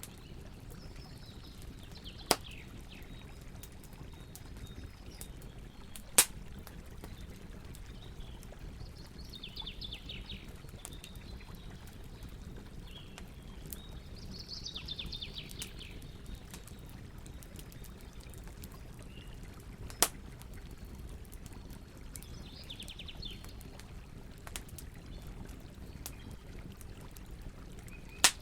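Campfire burning with a steady low rush and light crackling, broken by four sharp, loud pops. Songbirds sing short, rapid trilled phrases several times over it.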